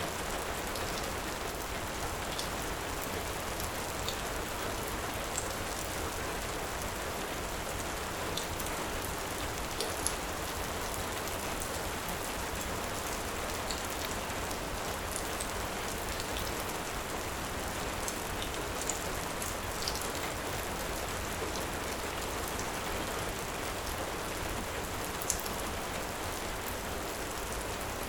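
Heavy rain falling steadily, with a handful of sharp crackles from a wood fire scattered through it.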